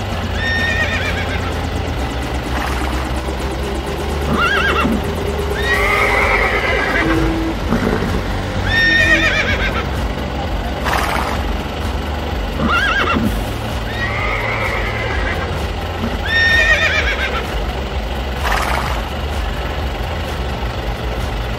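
Horse whinny sound effects, short shaky neighs repeated about every two seconds, dubbed over toy horses, above a steady low background hum.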